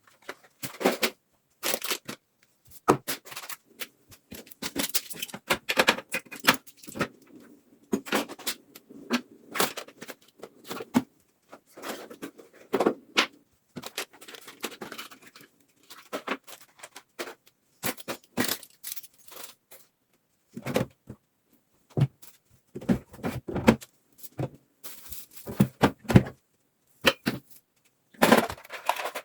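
Irregular knocks, clinks and rustles of containers and other items being handled and set down while a refrigerator is cleaned out, a few sharp sounds a second with short pauses between.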